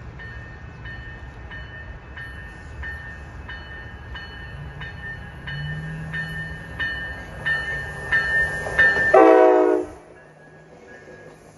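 A bell dings steadily, about three strokes every two seconds, growing louder as a train approaches. About nine seconds in, the train's air horn sounds one short, loud blast, and then the sound cuts off abruptly.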